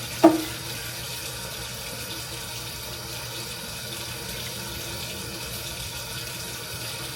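A steady, even hiss, like running water, with a faint low hum beneath it. A single sharp knock sounds about a quarter second in.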